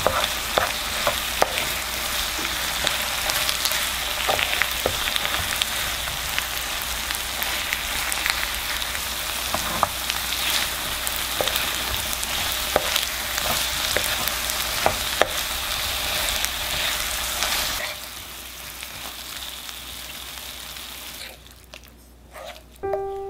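Rice cakes and minced garlic sizzling in hot oil in a frying pan, with a wooden spatula stirring and knocking against the pan now and then. The sizzle drops to a quieter hiss about 18 seconds in and fades out near the end.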